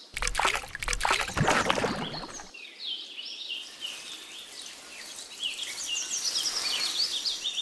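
About two and a half seconds of noisy splashing, then small birds chirping in quick repeated calls for the rest.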